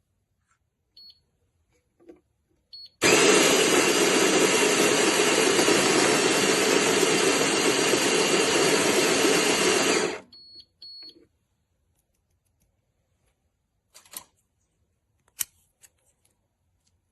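Tuni G1 electric conical burr coffee grinder running steadily for about seven seconds, then stopping. Short electronic beeps come just before it starts and just after it stops, and a couple of sharp clicks follow later.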